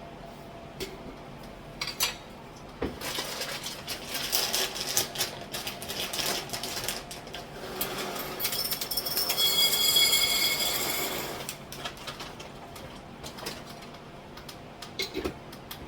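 Kitchen jars and containers clinking and rattling, with a stretch of dry granules poured in a stream into a container, which rings as it fills, around the middle.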